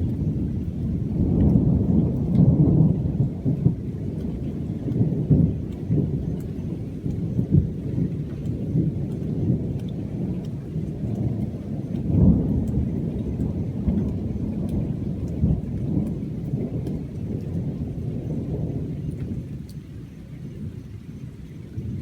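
Thunder rumbling almost continuously, swelling loudest a second or two in and again about twelve seconds in, then dying down near the end, with rain falling.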